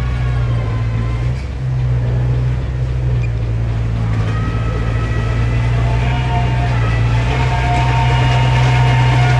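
Diesel engine of heavy earthmoving equipment running steadily under load, with a brief dip about a second and a half in. A set of higher steady whining tones joins from about four seconds in.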